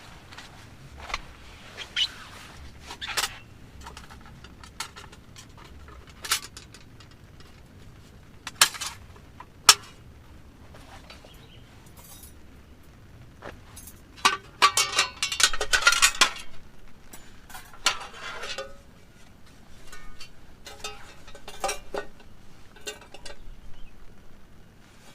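Scattered clinks and knocks of camping cookware and utensils being handled, with a denser run of clattering about halfway through.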